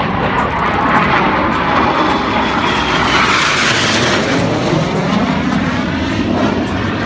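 Fixed-wing aircraft flying past low, a loud steady rush of engine noise that swells over the first second and eases a little toward the end.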